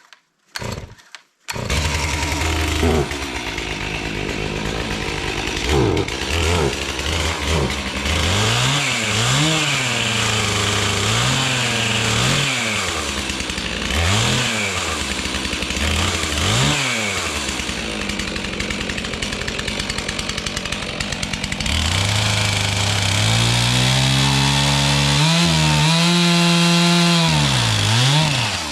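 Gas chainsaw running and revving up and down over and over, about every two seconds, then held at high speed for several seconds near the end with brief dips, as when bucking logs into firewood lengths.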